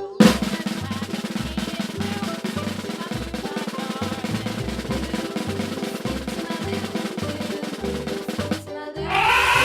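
Children's background music: a long, fast snare drum roll over a steady bass beat. The roll stops shortly before the end, and a brief pitched tone rises and then falls.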